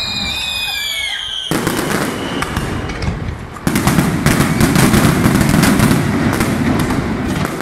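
Aerial fireworks going off: a whistle falling in pitch at the start, then from about a second and a half in a dense, rapid crackle of many small bursts. From about four seconds in, a heavier rumble of bursting shells joins the crackle and is the loudest part.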